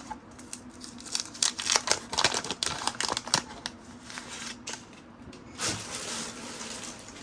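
Trading cards and their paper pack wrapping being handled: a quick run of crackling clicks, then a softer rustle near the end.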